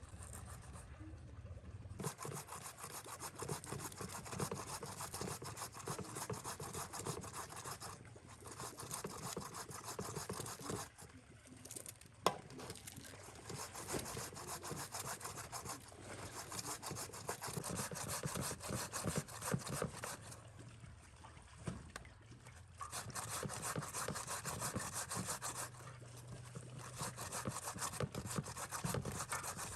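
Rapid, repeated scraping strokes, like hand work on a hard surface, pausing briefly a few times.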